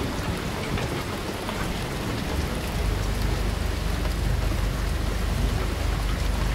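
Steady rain, with a low rumble that sets in about two and a half seconds in and holds.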